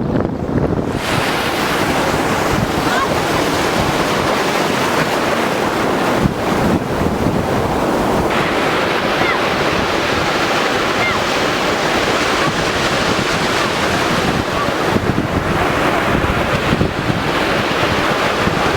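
Sea waves surging and breaking on the shore in a steady, continuous wash, with wind buffeting the microphone.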